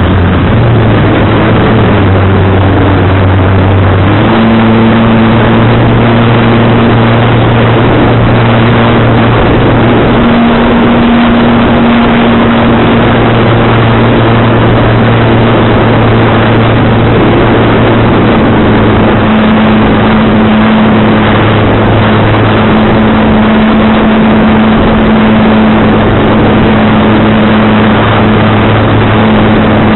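Model aircraft motor and propeller running with a steady droning hum that shifts pitch slightly a few times as the throttle changes, under heavy wind rush.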